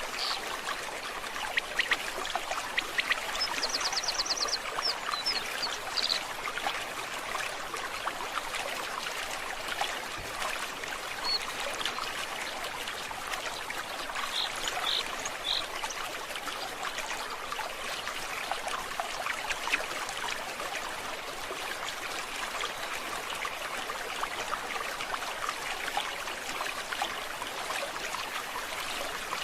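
A forest stream babbling steadily, with a few high bird calls over it: a quick trill a few seconds in and some short chirps around the middle.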